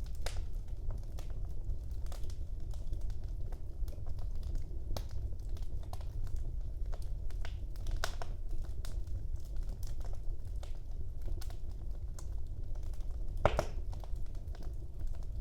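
Wood fire burning in a fireplace: a steady low rush of flames with scattered crackles and pops. The loudest pop comes near the end.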